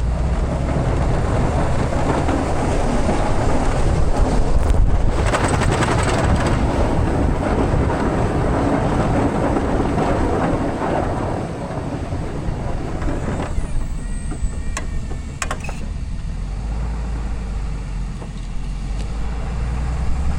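Ram pickup's Cummins diesel engine running as the truck plows snow, under a broad rushing noise that eases off about two-thirds of the way through. Two sharp clicks follow soon after.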